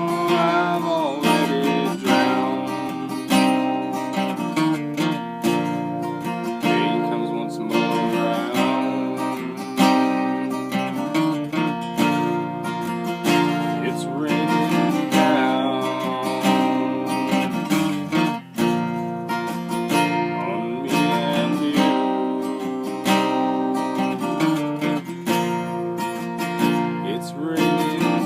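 Acoustic guitar strummed steadily, playing an instrumental passage of a song.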